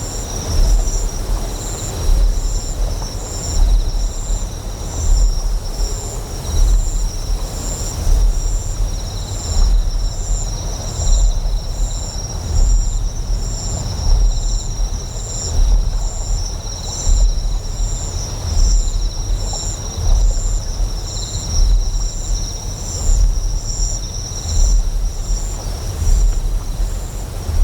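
Deep, low generator hum that swells in a slow pulse about every one and a half to two seconds, with steady high insect chirping over it, one line of it a quick pulsing trill.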